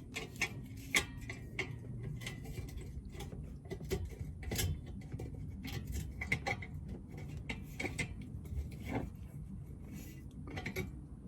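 Irregular light metallic clicks and taps, about one or two a second, from hand tools and hardware being worked while fitting exhaust tips.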